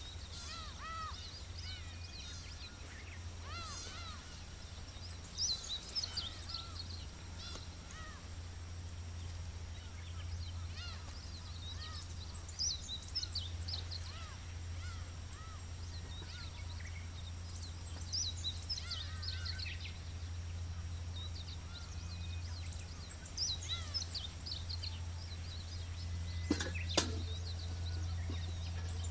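Birds chirping in short high bursts every few seconds over a steady low rumble. One sharp crack comes near the end.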